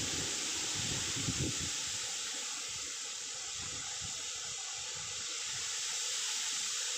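Wind blowing through tree leaves: a steady rustling hiss, with low gusts of wind rumbling in and out underneath.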